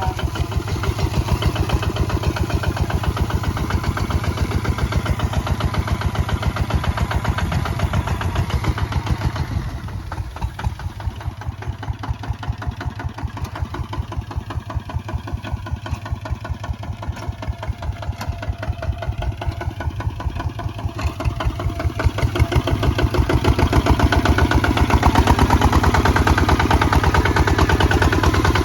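Kubota ZT155 single-cylinder diesel engine running with a steady, rapid firing beat. It drops somewhat quieter for a stretch in the middle, then picks up louder again about two-thirds of the way in.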